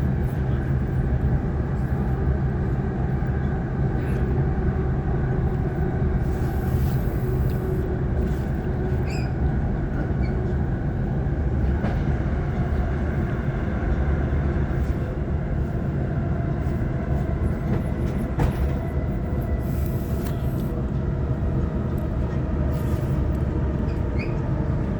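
Waratah electric multiple-unit train heard from inside the carriage while running between stations: a steady rumble of wheels on the rails under a steady electric hum, with a few faint clicks.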